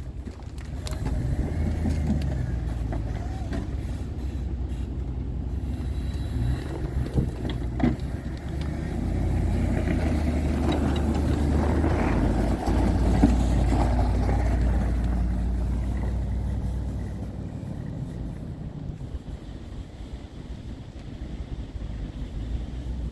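Truck engine running with a steady low hum. It grows louder about nine seconds in and fades back down after about seventeen seconds, as if the truck comes closer and then moves away.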